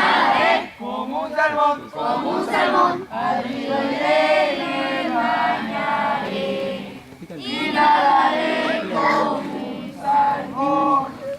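A group of scouts singing a scout campfire song together in unison, a repetition song in which the group echoes each line.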